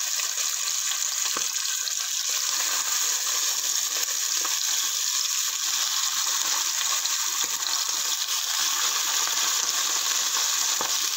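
Chorizo sausages and chicken liver frying in hot pork fat in a non-stick pan, a steady hissing sizzle. The liver went in still partly frozen, so its water spits in the fat.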